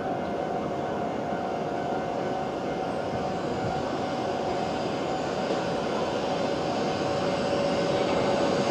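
Steady rushing drone of a train out of sight, with a couple of steady whining tones, growing slightly louder near the end.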